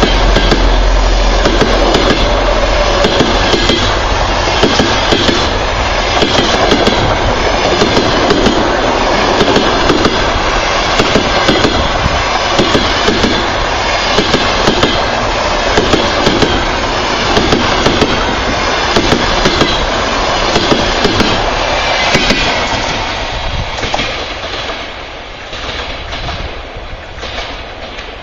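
Passenger train passing close by, wheels clicking over the rail joints in a rapid, irregular rhythm over a dense rumble; the sound fades in the last few seconds as the train draws away.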